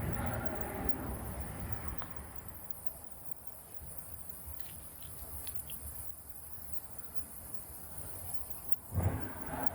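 Insects chirring steadily in the evening, over a low traffic rumble that fades over the first couple of seconds; a short low rumble comes near the end.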